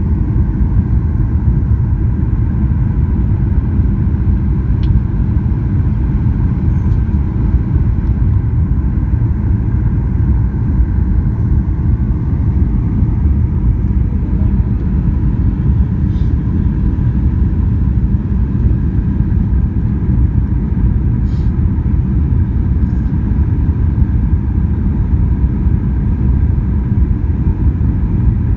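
Jet airliner cabin noise in flight: a steady low rumble of engines and airflow, with a faint steady whine above it and a few soft ticks.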